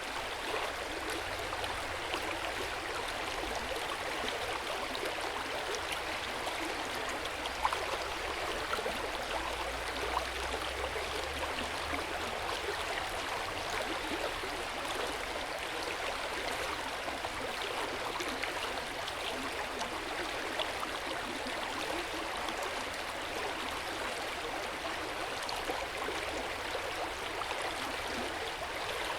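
A stream flowing: a steady rush of running water, sprinkled with small splashes and gurgles.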